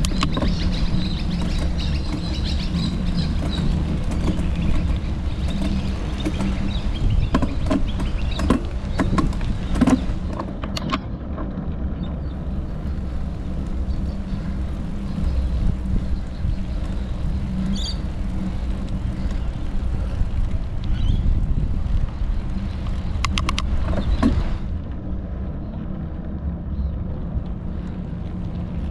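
Bicycle ride-along sound: a steady low rumble of wind on the microphone and tyres on the path, with a few brief rattles and clicks.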